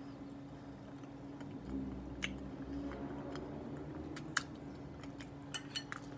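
Close-up chewing of a mouthful of spaghetti squash lasagna with shrimp and mushrooms, over a steady low hum. A few sharp clicks come about two seconds in, around four seconds, and in a quick cluster near the end.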